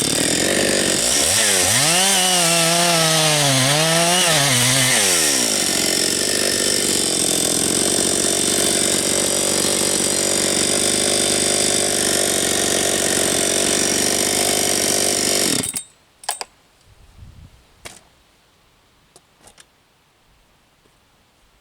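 Husqvarna 272XP two-stroke chainsaw running at full throttle through a log. Its engine note dips and wavers under the load for the first few seconds, then holds steady and stops abruptly about 16 seconds in. A few faint knocks follow.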